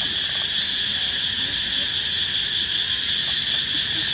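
Steady chorus of night insects: a continuous high trill with a fast, even pulse.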